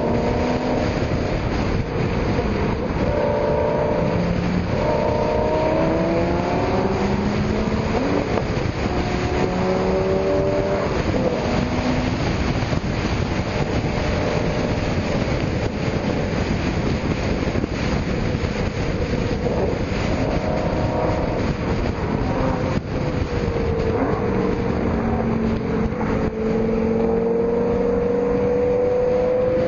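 Several sports car engines revving and accelerating, their pitch climbing and dropping again and again and overlapping, over a constant rush of noise; one engine pulls up in a long rising note near the end.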